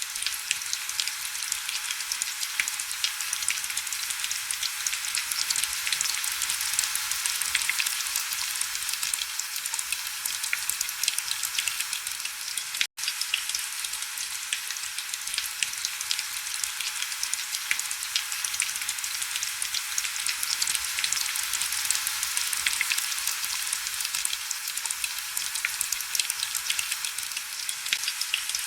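Steady heavy rain, a dense hiss of countless fine drop crackles with little low end. It cuts out for an instant about thirteen seconds in.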